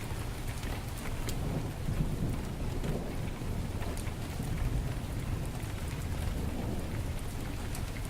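Heavy rain falling steadily with a deep low rumble underneath, and a few sharp crackles from a wood fire in a fireplace.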